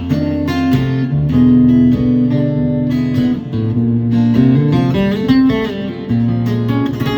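Acoustic guitar playing a solo blues passage without singing: quick plucked notes over a changing bass line.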